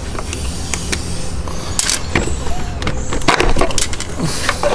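Scattered knocks, clicks and clatter of hands and tools working on parts in a car's engine bay, over a steady low rumble.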